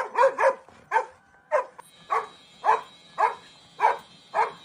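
A dog barking on cue in a steady series of short barks, about two a second, each bark clipped and even in loudness.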